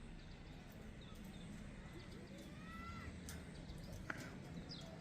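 Faint short bird calls: a brief curved chirp about halfway through and a few thin high chirps, over a low steady background hum, with one sharp click about four seconds in.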